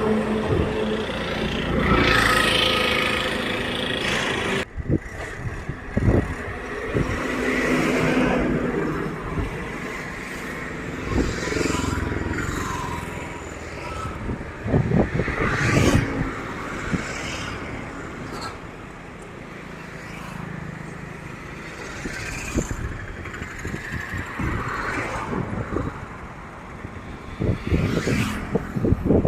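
Tractor engines running and revving, the sound rising and falling as the tractors labour in the soft river-bed sand where they are getting stuck. Voices and a few sharp knocks are heard as well.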